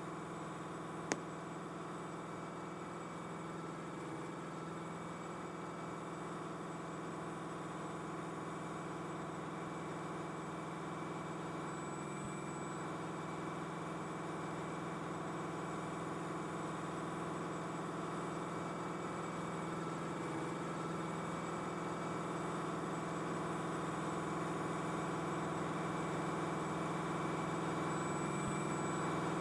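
Diesel locomotive of a slow-moving freight train running steadily, slowly growing louder. A single sharp click about a second in.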